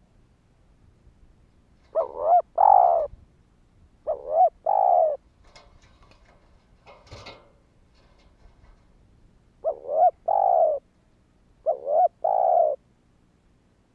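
Spotted dove cooing: four calls, each a short bent note followed by a longer one, given in two pairs about two seconds apart with a pause of about six seconds between the pairs.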